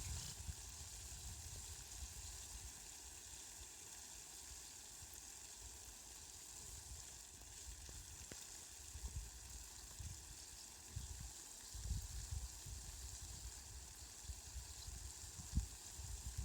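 Rain falling as a steady, soft hiss, with low rumbles coming and going beneath it.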